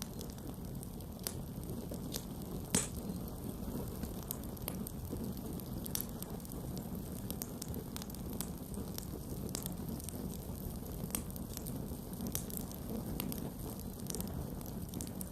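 Wood campfire burning: a steady low rush of flames with scattered sharp crackles and pops, one louder pop about three seconds in.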